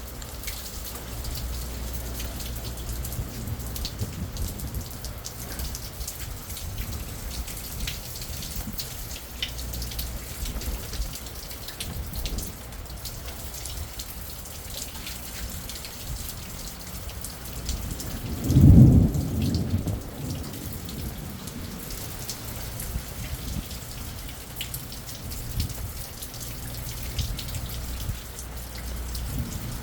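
Steady rain with drops ticking on surfaces. About two-thirds of the way in, one short, low clap of thunder, the loudest sound, dies away over a second or two.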